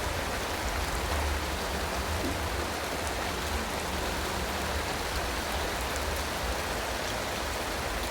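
Steady rainfall, an even hiss of rain falling on surfaces with no pauses or changes.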